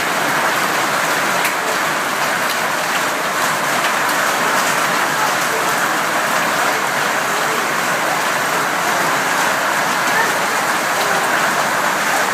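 Hail coming down hard in a dense, steady clatter, with a few sharper single hits standing out.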